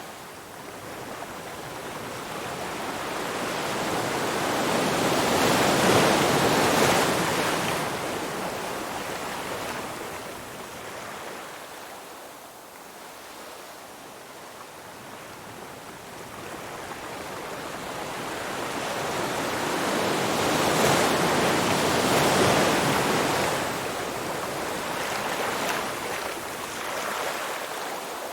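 Ocean surf: waves washing in with a slow rise and fall, two big swells cresting about 6 seconds and 21 seconds in, then easing back.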